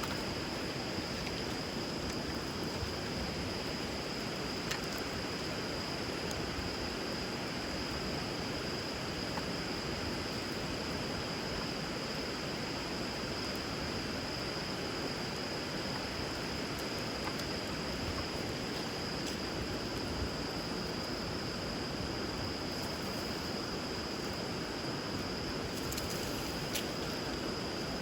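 Steady rush of flowing river water, with a wood fire on the water giving a few sparse crackles and pops. A thin high-pitched tone holds steady throughout.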